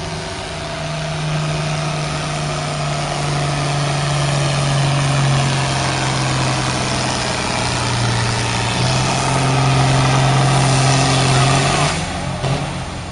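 Pulling tractor's engine running hard under load as it drags the sled down the track. Its pitch sags slightly about two-thirds of the way through as the engine lugs down, then it throttles back near the end.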